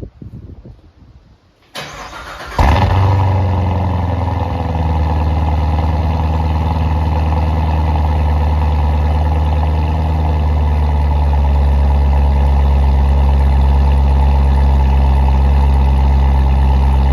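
Vehicle engine on a cold start. It cranks briefly about two seconds in, catches less than a second later, and settles into a loud, steady idle.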